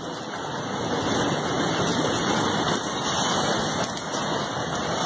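Rain falling steadily: a continuous, even hiss with no distinct events.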